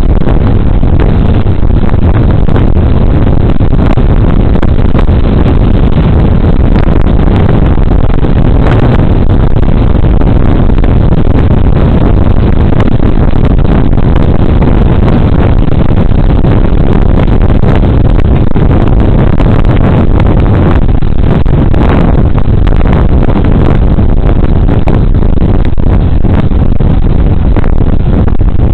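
Loud, steady rush of wind and road noise on a body camera's microphone while riding a Suzuki Burgman Street 125 scooter, heaviest in the low end with no clear engine note standing out.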